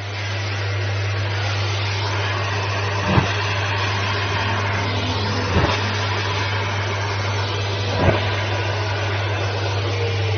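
Vacuum cleaner running steadily with a low hum under a loud hiss, its nozzle sucking on bare legs. Three short pops come at even intervals.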